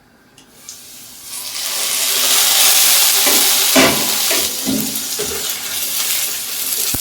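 Onion, garlic and coriander-stem mixture sizzling in hot oil in a cooking pot, the hiss swelling in about a second in and staying loud, with a few knocks of the spoon as it is stirred.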